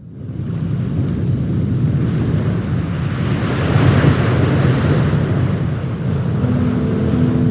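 Sea waves washing in, with wind rumbling on the microphone, fading in at the start. Music with held notes comes in faintly near the end.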